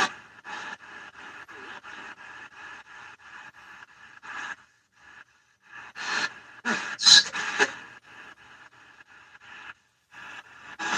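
Spirit box sweeping through radio stations: evenly chopped static and hum at about four pulses a second, with a short gap and louder snatches of voice-like sound about four and a half and six to eight seconds in.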